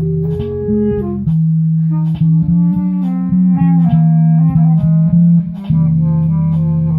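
A band jamming instrumental music: held low notes under a melody line that steps from note to note, with light drum hits through it.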